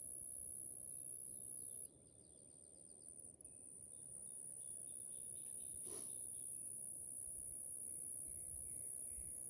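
Chorus of insects trilling in a steady high-pitched buzz. The buzz drops away about two seconds in and swells back within a couple of seconds. A single faint click sounds about six seconds in.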